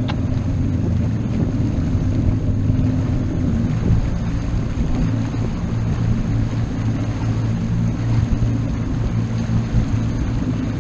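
Motorboat engine running steadily at a constant speed, a low hum with some wind noise.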